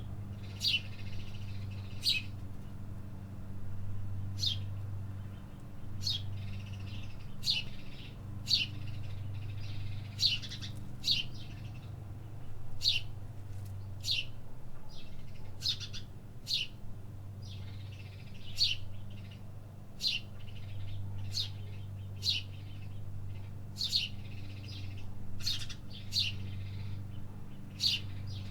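City birds chirping: short, sharp, high calls repeated about once a second at irregular intervals. A steady low hum runs underneath.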